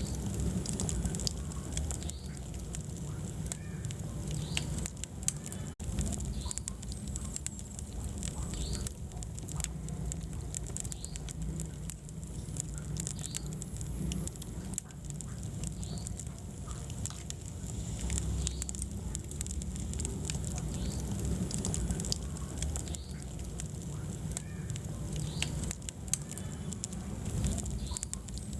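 Wood fire burning in a fireplace: dense, irregular crackles and pops over a steady low rumble of the flames, with a split-second dropout about six seconds in.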